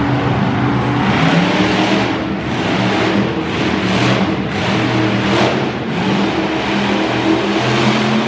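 Monster truck engine running loud and revving, with surges of noisy power in the middle seconds.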